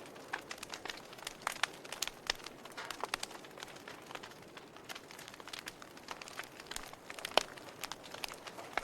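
Wood fire burning in a fireplace, crackling with irregular sharp snaps and pops over a soft hiss, one louder pop about seven and a half seconds in.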